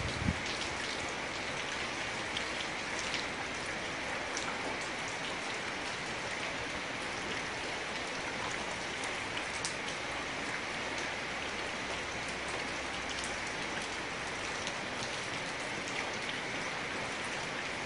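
Steady tropical rain falling, an even hiss with scattered individual drops ticking close by.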